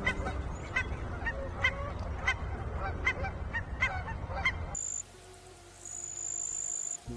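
Domestic waterfowl calling over and over, about two short calls a second, over a noisy background. About five seconds in this cuts off and a steady high trill takes over, with soft music.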